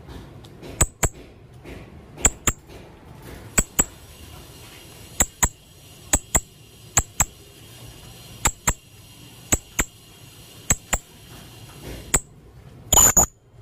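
Blue-crowned hanging parrot (serindit) giving short, sharp, high-pitched call notes, mostly in quick pairs about once a second, with a longer, louder burst of calls near the end.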